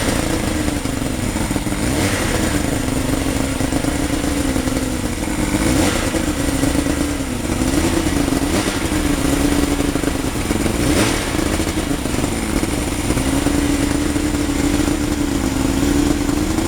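Mercury outboard engine in a homebuilt sidecar racer running steadily, warming up after a cold start, its pitch rising and falling a little with light throttle blips.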